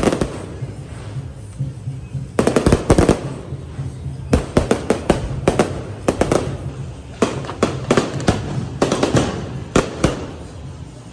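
Fireworks going off in irregular volleys of sharp bangs and crackles, a fresh cluster every second or two.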